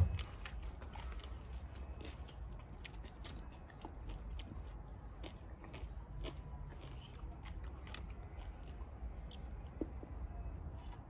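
Close-miked chewing of rice and curry eaten by hand, with many small clicks scattered throughout. A single louder knock comes right at the start.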